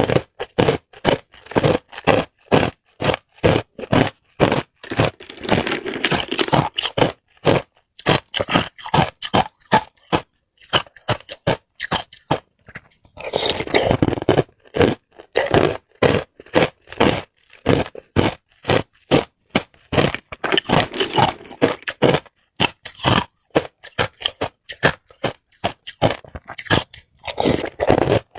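Hard ice cubes crunched between the teeth: quick runs of sharp, cracking crunches, several a second, broken by a few short pauses.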